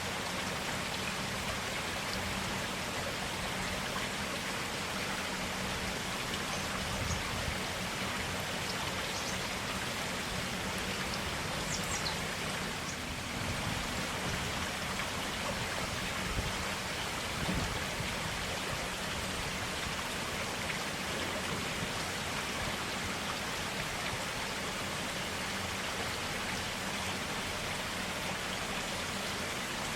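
Clear forest stream flowing steadily over rocks, an even rushing and trickling of water.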